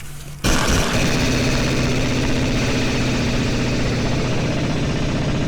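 Pneumatic (air-powered) tool running in one long steady buzzing burst on the 13 mm exhaust manifold bolts, cutting in about half a second in.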